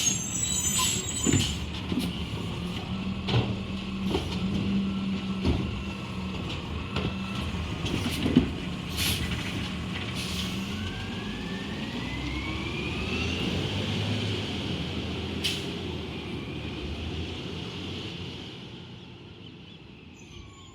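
Garbage truck running, its engine droning under several knocks and short hisses, then a rising whine as it speeds up, fading away near the end.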